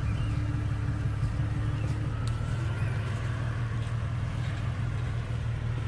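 Jeep Cherokee XJ engine running steadily at low revs as the Jeep crawls forward at walking pace.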